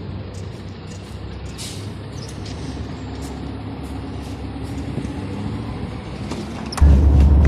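Tatra T3SU tram with a steady low hum and scattered light clicks; near the end a much louder low rumble sets in suddenly.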